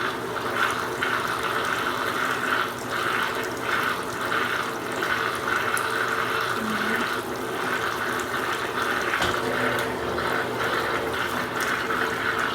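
Washing machines running, with water rushing steadily through them and a faint steady motor hum underneath.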